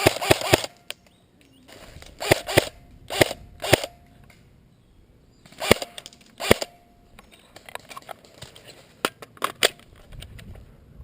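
Airsoft guns firing: a quick burst of shots at the start, then single shots and pairs spread over several seconds, with lighter scattered clicks near the end.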